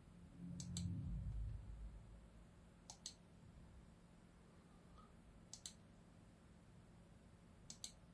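Computer mouse button clicking four times, about every two and a half seconds, each click a quick double tick of press and release. A low rumble sounds during the first two seconds.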